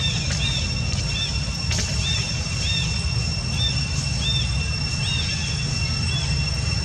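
Outdoor ambience: a steady high insect drone, with short high chirping calls repeating about once a second and a dense low rumble underneath.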